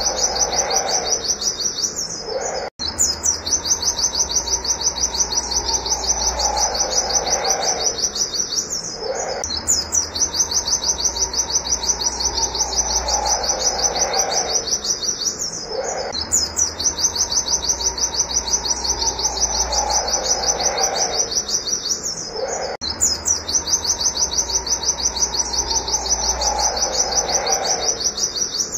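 White-eye (pleci) singing its 'nembak wit wit' song: a fast, unbroken run of high, sharp 'wit' notes, many a second, with a brief pause about every six to seven seconds.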